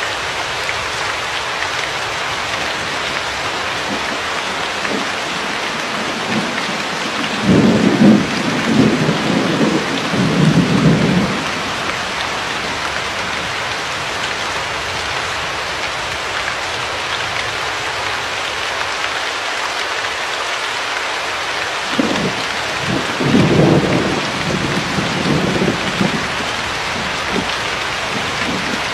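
Steady rain falling, with two rolls of thunder: one about seven seconds in and another past twenty seconds, each rumbling for three or four seconds.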